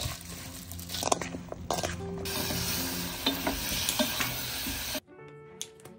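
Food sizzling in oil in a frying pan, with stirring sounds and light background music underneath. The sizzling cuts off suddenly about five seconds in, and only the music carries on.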